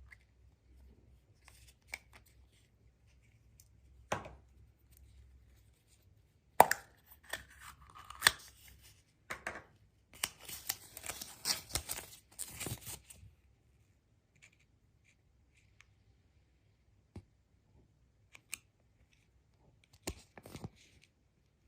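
Surprise-egg packaging being torn open and handled: sharp clicks and taps, with two stretches of tearing and crinkling about 7 and 10 seconds in, then a few light ticks and a last flurry of handling near the end.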